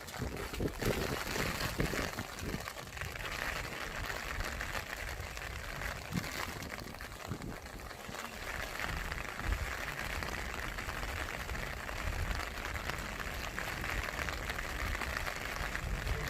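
Rain falling steadily, an even hiss scattered with many small drip ticks.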